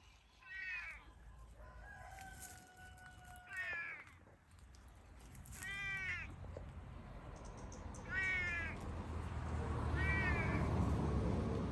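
Domestic cat meowing five times, short calls about two seconds apart.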